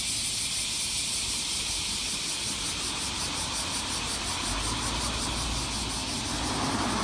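Cicadas shrilling in a dense, steady chorus: a loud, high buzz with a fast, even pulse. A low rumble comes in underneath around the middle.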